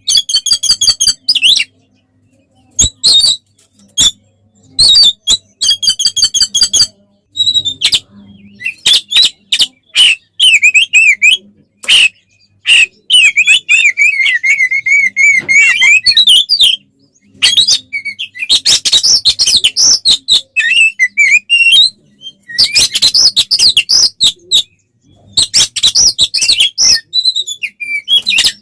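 Oriental magpie-robin (kacer) singing loudly in fighting mood: bursts of rapid clicking notes, fast trills and wavering whistled warbles, broken by short pauses between phrases.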